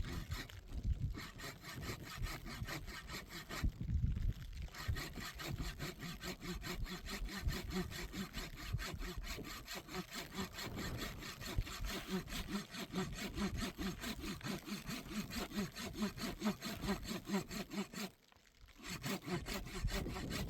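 A saw cutting through wood with quick, regular back-and-forth strokes, pausing briefly about four seconds in and again near the end.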